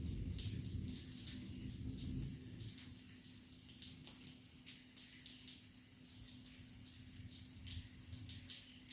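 Rain falling, with separate drops pattering and dripping onto surfaces, and a low rumble dying away over the first couple of seconds.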